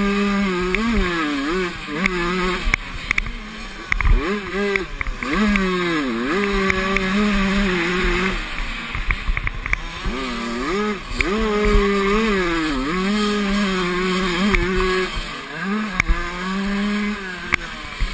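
Motocross bikes racing, their engines revving up and dropping back again and again as the riders work the throttle and shift gears, with scattered sharp clicks over the top.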